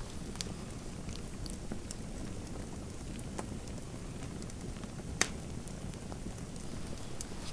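Fireplace fire crackling: a steady low rumble of flames with a few scattered sharp pops, the loudest about five seconds in.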